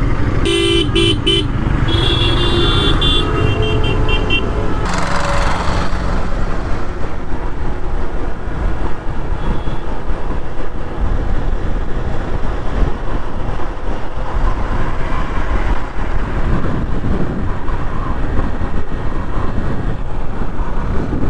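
Ride on a motorcycle with steady wind and road noise. In the first few seconds a vehicle horn gives a few quick toots, then a longer honk.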